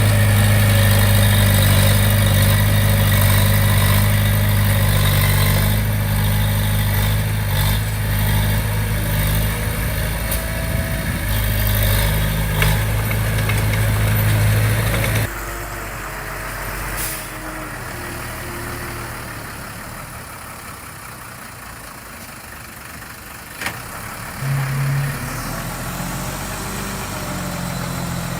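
Diesel engine of heavy earthmoving equipment running steadily. About halfway through it drops abruptly to a quieter, lower engine sound, with a single sharp click late on.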